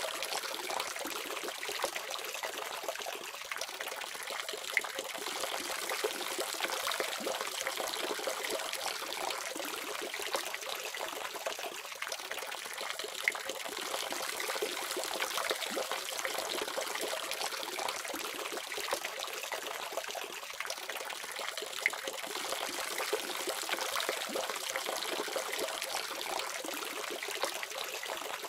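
Water running steadily from a tap, an even splashing trickle without pause.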